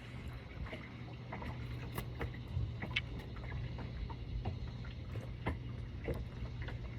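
Ambience aboard a boat: a steady low hum with scattered small taps and light water sounds.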